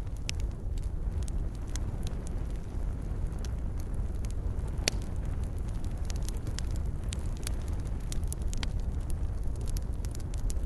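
Wood fire crackling in a fireplace: scattered sharp pops and snaps over a steady low rumble, with one louder pop about five seconds in.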